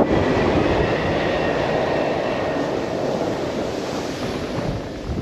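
Blizzard wind blowing hard across the microphone: a steady, loud rushing rumble that eases a little near the end.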